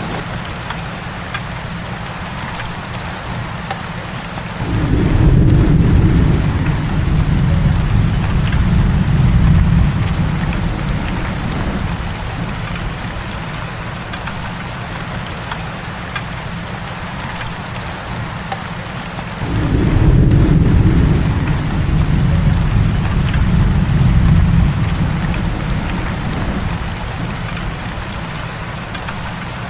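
Heavy rain falling in a steady hiss, with two low rolls of thunder, one about five seconds in and another about twenty seconds in, each rumbling for several seconds before fading.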